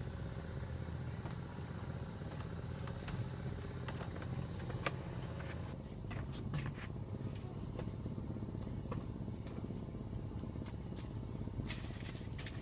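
Insects chirring as a steady high-pitched drone, with scattered clicks and knocks over a low rumble and a small cluster of knocks near the end.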